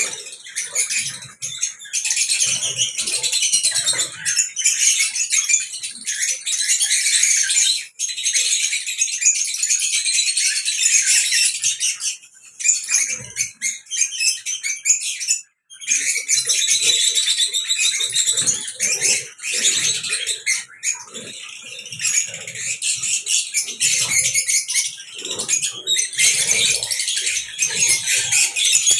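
A flock of small caged birds chirping and twittering together in a dense, high-pitched chatter, broken by a few brief lulls, with soft rustling underneath.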